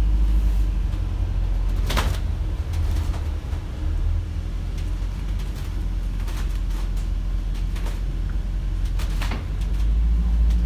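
Low, steady rumble of a moving vehicle heard from inside, with a few sharp clacks, two of them louder, about two seconds in and about nine seconds in.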